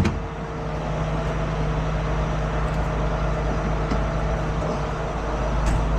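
Heavy truck's diesel engine idling steadily with an even hum, after a single sharp bang right at the start.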